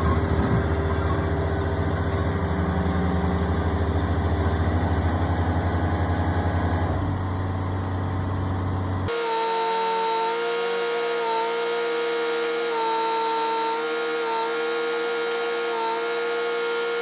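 An engine running steadily for about nine seconds. After a sudden change it gives way to a steady, horn-like pitched drone.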